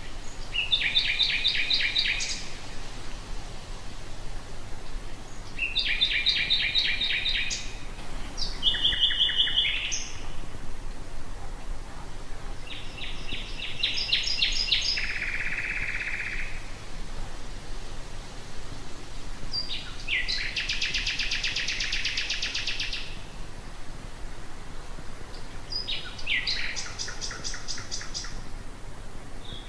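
Common nightingale singing: about six separate phrases of rapidly repeated notes and trills, each lasting a second or few, with pauses of a few seconds between them, over a faint steady low background hum.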